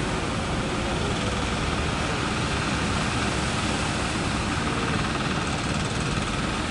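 Steady drone of fishing-boat engines over the continuous noise of surf, with no breaks or changes.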